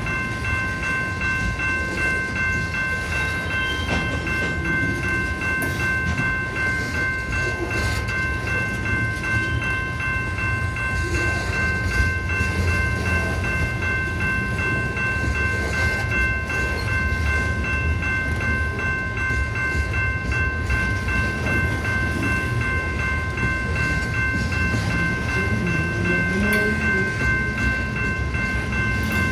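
A train rolling past with a steady low rumble from the cars on the rails. Over it runs a continuous high ringing of several tones, typical of a street crossing's warning bells.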